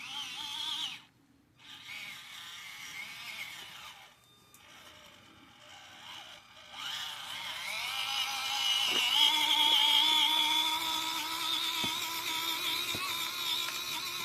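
Small electric motor and gearbox of an SCX24 C10 RC crawler truck whining as it drives. It comes in short bursts at first, then runs on from about seven seconds in, rising in pitch near nine seconds, with a few faint ticks.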